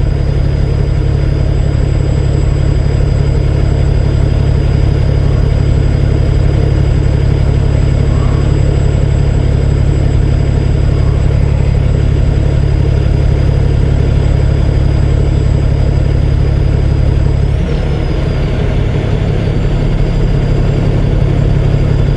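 Semi truck's diesel engine idling steadily, with a slight drop in level and a change in its low note about 18 seconds in.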